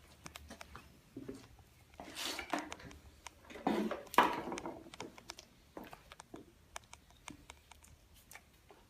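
Rustling and scuffling with scattered small clicks and taps, and two louder bursts of rustling about two and four seconds in.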